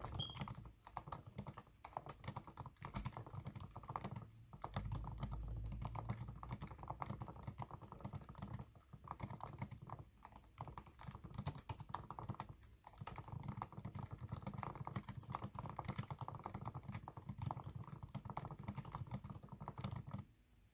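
Computer keyboard typed on rapidly in a typing test: a dense run of key clicks with a few short pauses, stopping near the end.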